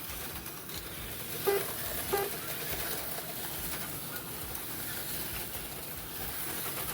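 HO-scale slot cars running on the track, a steady whirring hiss, with two short pitched blips about a second and a half and two seconds in.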